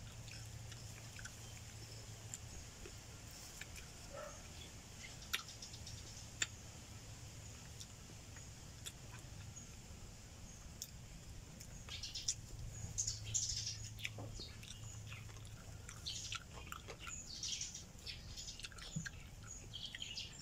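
Small birds chirping in short clusters from about twelve seconds in, over occasional faint clicks and smacks of eating with the fingers.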